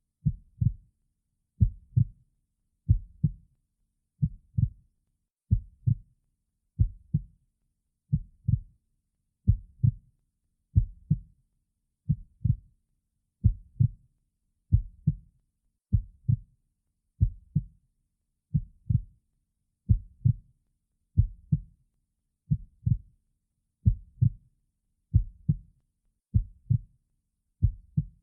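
Slow, steady heartbeat: paired low 'lub-dub' thumps repeating about every 1.3 seconds, around 45 beats a minute.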